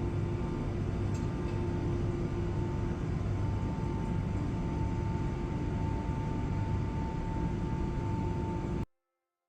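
Steady machinery running: a low hum and broad noise with two held tones, unchanged until it cuts off suddenly near the end.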